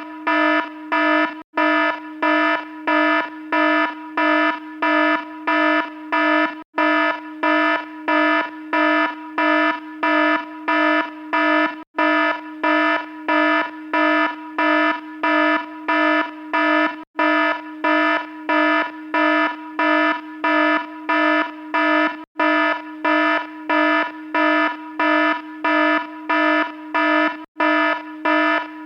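Electronic alarm sounding a harsh, buzzy tone in an even on-off pulse of about two beeps a second. The pattern breaks off for an instant roughly every five seconds, then resumes unchanged.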